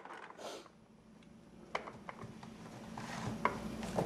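Scattered light knocks and clicks of a toddler handling household things, getting busier after about two seconds, over a faint steady low hum.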